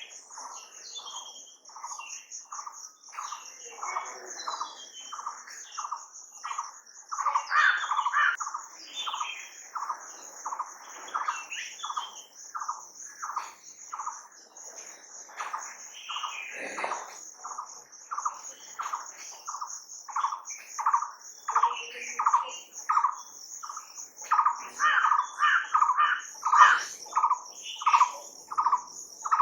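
Outdoor chorus of birds: one bird repeats a short note in a steady run throughout, while other birds chirp and call over it. Behind them, a continuous high insect buzz.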